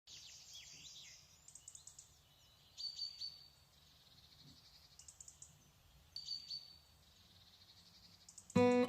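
Small birds chirping and calling, high-pitched trills and twitters repeating, faint, with two louder calls about three and six seconds in.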